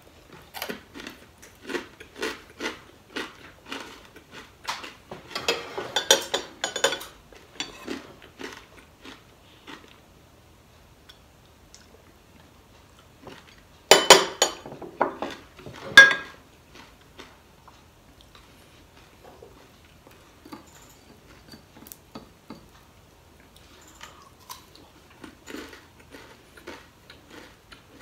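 Close-mic chewing of crisp fried daing (dried fish): regular crunchy bites about twice a second for the first several seconds, then softer, sparser chewing. About halfway through come two loud clinks of a ceramic plate, the second one ringing briefly.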